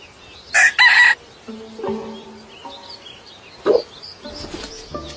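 A loud, short bird call in two parts about a second in, followed by soft background music with held notes.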